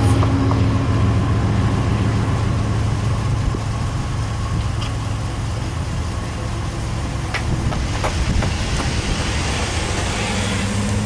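Steady low rumble of the departing freight train dying away as the crossing clears, with a pickup truck's engine near the end as it drives up to the crossing.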